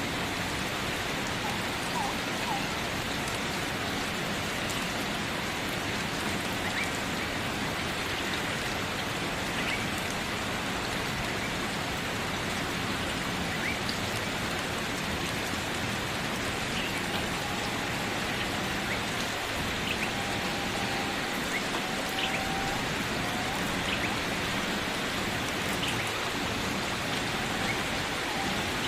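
Steady rain, an even hiss without a break, with a few faint short higher sounds scattered through it.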